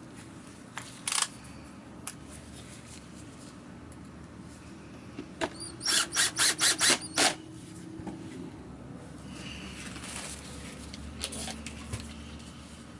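Plastic vacuum cleaner parts being handled during cleaning: scattered small clicks and rubbing, a sharp knock about a second in, and a quick run of about six sharp knocks about halfway through.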